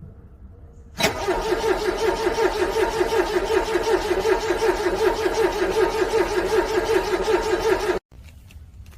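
Car starter motor cranking a cold engine for about seven seconds with an even, fast pulsing, without the engine catching. The cranking stops suddenly near the end.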